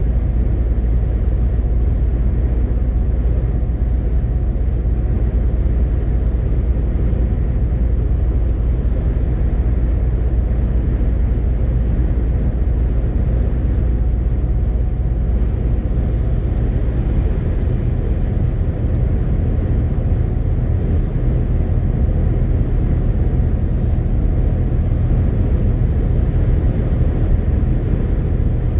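MAN TGX 18.520 truck's straight-six diesel running steadily under way, with continuous road and tyre noise as a low, even drone.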